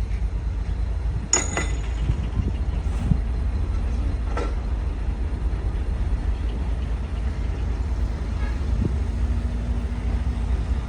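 Heavy diesel earthmoving machinery running, a steady low rumble, with short sharp sounds about one and a half and four and a half seconds in.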